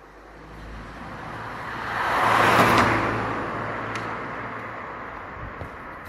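A road vehicle passing by: its noise swells to a peak about two and a half seconds in, then fades away.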